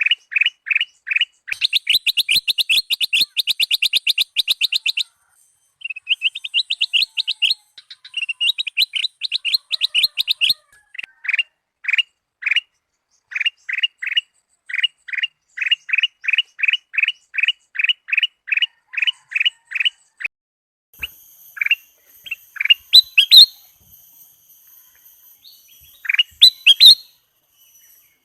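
Kutilang emas bulbul singing: long runs of short, rapidly repeated whistled notes, some runs faster and higher-pitched, broken by brief pauses. The song thins to scattered notes near the end, and a thin high steady tone joins in.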